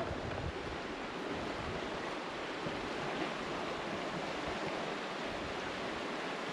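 The Red Deer River in flood after torrential rain, its swollen water rushing steadily as an even, continuous noise.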